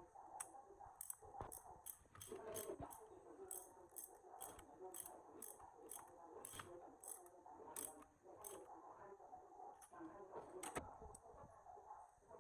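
Faint, quick light clicks, about two a second, over soft handling and rustling noise, typical of small hand-tool work at a bench. The clicking stops about eight seconds in, then two more clicks follow.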